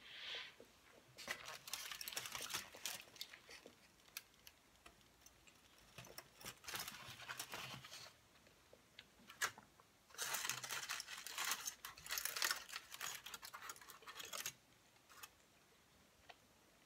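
Close-miked chewing of sushi rolls: three bursts of crackly, wet clicking with short quiet gaps between them.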